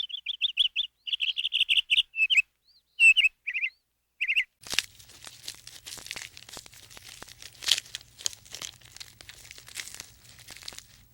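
A bird chirping in quick runs of short high notes, which stop about four and a half seconds in. Then comes a crackling, rustling noise with scattered clicks over a faint low hum.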